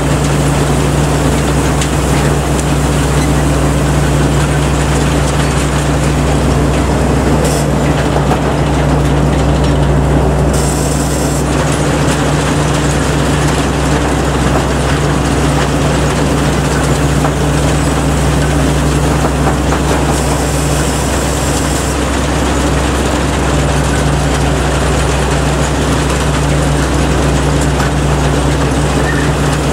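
Kaset Pattana rice combine harvester running steadily: a constant engine drone with the clatter and hiss of the harvesting machinery, unchanging throughout.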